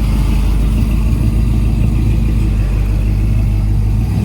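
Car engine running with a steady, deep rumble.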